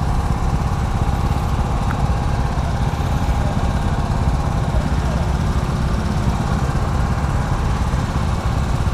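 Steady engine and wind noise of a vehicle riding along a city street, with a dense low rumble on the microphone that holds even throughout.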